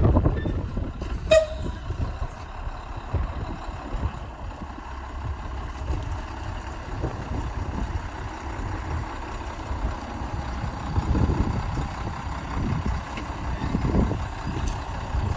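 1987 Ford L8000 straight truck's engine running with a steady low rumble, and a single sharp click about a second in.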